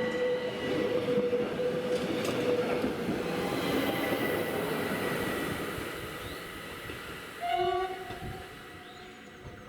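Himmelstreppe electric narrow-gauge train running past with a rumble and a steady high whine, fading away over the last few seconds. A short horn blast sounds about three quarters of the way through.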